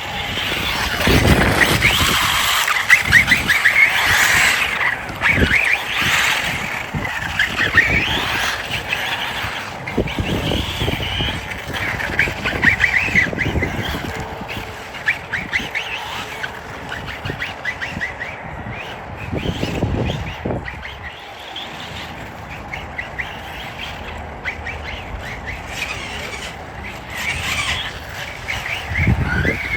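Small brushed electric motor and drivetrain of a 1/18-scale Arrma Granite Grom Mega RC monster truck whining as it is driven. The whine rises and falls in bursts every few seconds as the throttle is worked.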